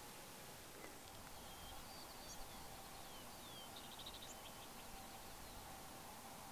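Faint small-bird calls: a few short down-slurred chirps and a quick trill about four seconds in, over quiet open-air hiss.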